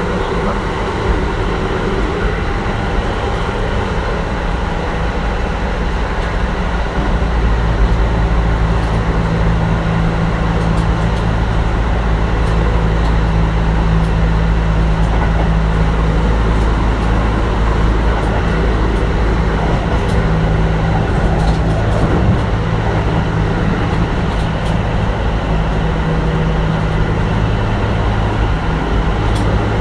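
Kintetsu 1420 series electric train running along the line, heard from inside the car: a steady low rumble of wheels and running gear that grows louder about seven seconds in.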